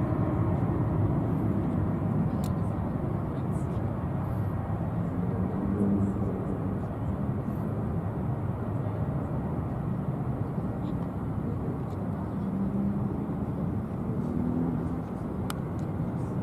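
Steady low rumble of a Boeing 777-300ER's GE90 jet engines, heard in the open air, with faint tones wavering in the rumble.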